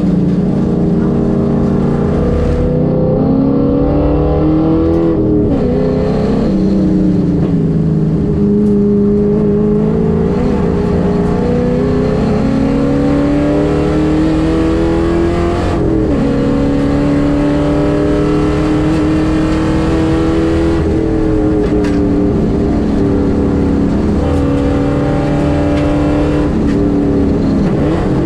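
Holden Commodore race car's engine heard from inside the cabin under hard track driving: the engine note climbs as it accelerates, then drops sharply at gear changes and braking for corners several times.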